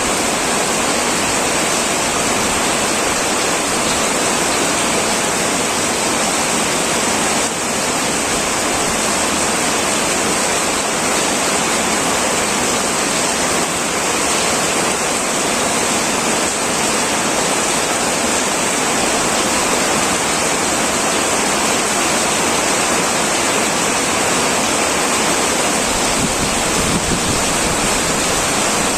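Heavy rain pouring steadily on a tin roof: a dense, even rush of drops with no breaks.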